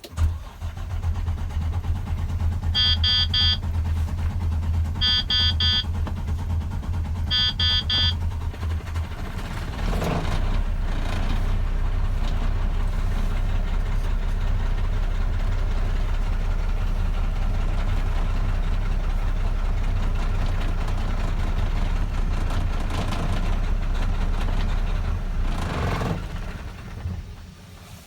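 Mack MP8 inline-six diesel in a 2010 Mack Granite cranking for about nine seconds before it catches and settles into a steady idle. A warning beeper sounds in three short bursts during the cranking, and the engine goes quiet near the end. The long crank is the hard starting the owner is asking about, which he suspects may be a DPF or injector problem.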